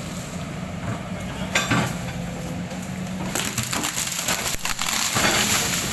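Oil palm trunk cracking and splintering as a machine pushes it over, over the steady low hum of the machine's engine. A sharp crack comes about a second and a half in, and a dense run of splintering starts about three seconds in.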